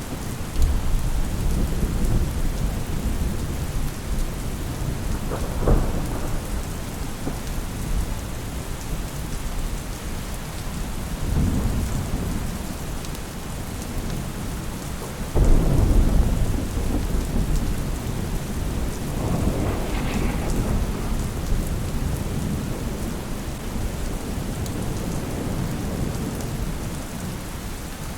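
Steady rain falling, with repeated deep rolls of thunder rumbling over it, the loudest breaking in suddenly about fifteen seconds in.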